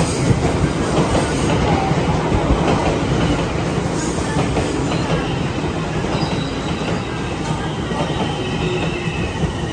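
JR West 683 series limited express train rolling slowly into the platform, its wheels clacking over the rail joints. From about four seconds in there is a faint high squeal from the wheels.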